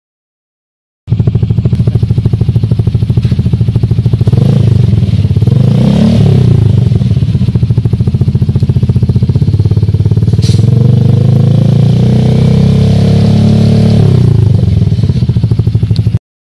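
Yamaha Xeon GT125 scooter's single-cylinder 125 cc engine running through an aftermarket racing exhaust, loud with a fast steady pulse, revved up and let back down a few times. The sound starts abruptly about a second in and cuts off abruptly near the end.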